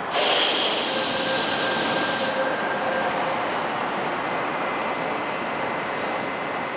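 Korail 341000-series subway train at a station platform: a sudden loud hiss lasting about two seconds, then steady train noise with a few faint high tones.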